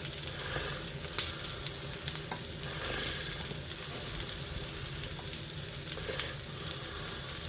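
Steak sizzling in a frying pan: a steady frying hiss with a few sharp crackles.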